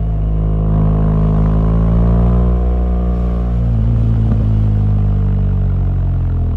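BMW R1200GS boxer twin engine running while the motorcycle is ridden. The engine note climbs for about two seconds, then falls a little after the halfway point and settles lower.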